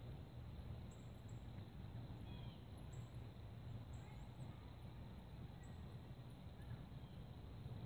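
Faint outdoor ambience: a steady low rumble with small birds chirping briefly every second or so.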